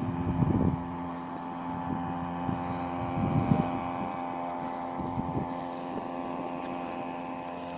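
Chinese Hangkai 3.5 hp outboard motor running steadily under way on a small boat, with a couple of brief louder swells of noise.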